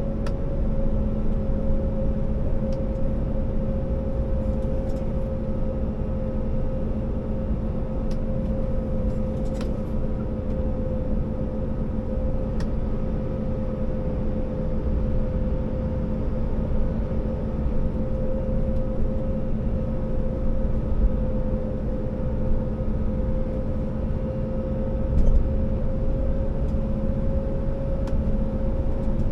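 Scania R650's V8 diesel engine running steadily as the 60-tonne timber truck drives, a constant drone over a low rumble with a steady whine above it.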